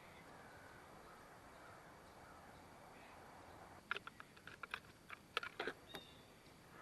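Near silence, then, about four seconds in, a quick run of around a dozen light, sharp clicks and taps lasting about two seconds.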